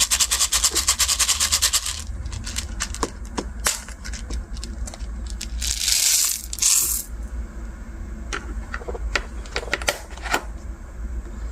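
Translucent slime with plastic beads being squished and pressed by hand, giving a dense run of crackling clicks for about the first two seconds. Scattered single clicks follow, with a louder squelching crunch about six seconds in.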